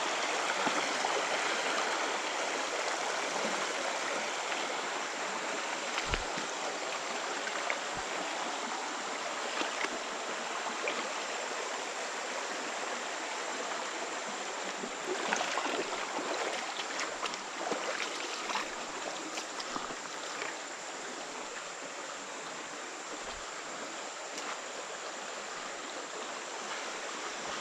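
Creek water running over rocks, a steady rushing hiss, with a few light knocks and clicks scattered through it.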